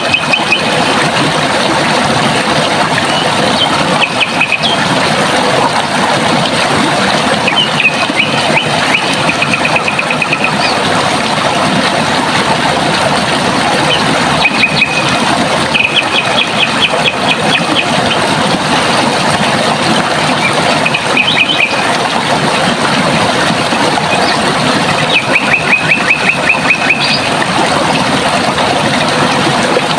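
Running water rushing steadily, with a small bird singing short rapid trills every few seconds over it.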